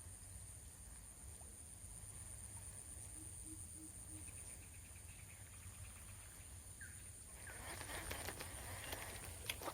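Faint outdoor ambience: a steady high-pitched insect drone with a few short chirping calls about midway. In the last two seconds it gives way to rustling and sharp clicks that grow louder.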